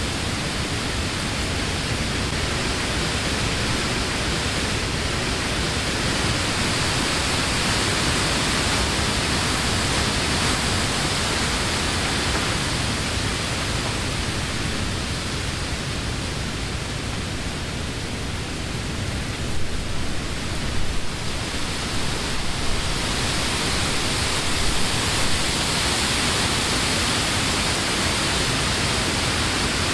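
Wind blowing through trees, leaves rustling in a steady hiss that swells and eases, with a few brief louder gusts around two-thirds of the way through.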